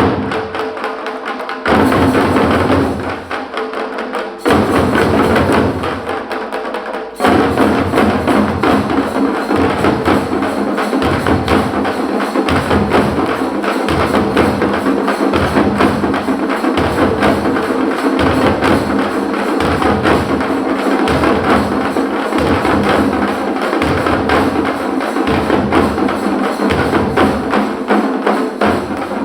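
Parai frame drums beaten with sticks. A few heavy, separate strokes ring out every two to three seconds, then about seven seconds in a fast, dense rhythm starts and runs steadily over a deep pulse that comes a little more than once a second.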